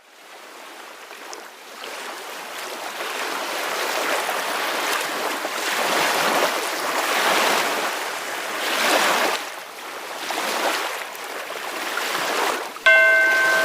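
Ocean waves washing in, fading in at the start and then swelling and ebbing in repeated surges. Near the end a steady ringing tone with several pitches starts suddenly and is the loudest sound.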